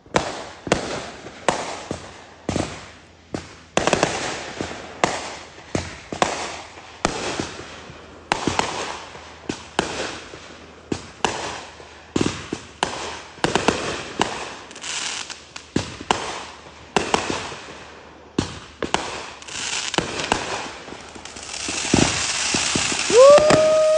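Consumer fireworks going off in a run of sharp bangs, one or two a second, each followed by crackling. Near the end a dense crackle and hiss sets in as a ground firework shoots up sparks, and in the last second a steady high whistle starts.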